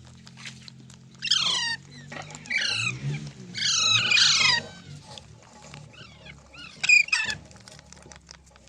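Green ringneck parrot (rose-ringed parakeet) screeching: harsh, rapidly down-sliding shrieks in four bursts, about a second in, twice close together around three and four seconds, and once more near seven seconds.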